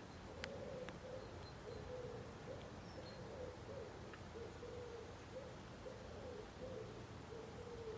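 A pigeon cooing, a long run of low, wavering coos one after another. A couple of sharp clicks come in the first second, with faint high chirps from small birds.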